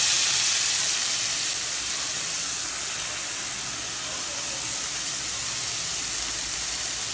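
Chopped onions sizzling in hot oil, a steady frying hiss.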